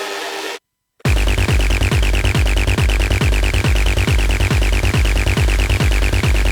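Techno track in a DJ set: a held synth chord cuts off into a brief dead silence under a second in, then the beat drops back in with a steady four-on-the-floor kick drum, about two beats a second, and fast ticking hi-hats above it.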